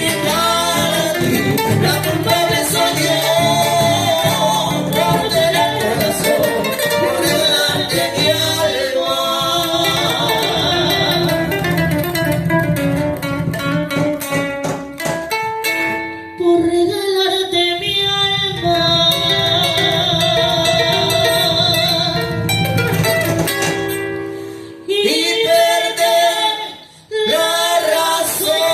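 Live son criollo band music: singing over plucked guitar. The music drops back briefly about halfway through and again near the end.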